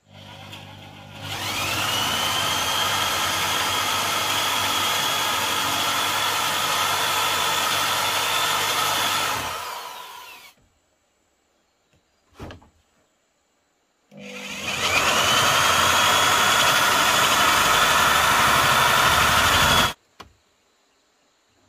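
An electric power tool spins up with a rising whine and runs steadily for about eight seconds, then winds down. After a short pause and a single knock, it runs again for about six seconds and cuts off abruptly.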